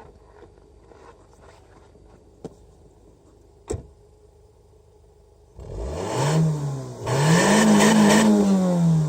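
Exhaust of a Nissan Sunny (FB15) at about −30 °C, quiet at first with a couple of small clicks, then the engine revved twice about halfway through: a short blip, then a longer, higher rev that falls back near the end.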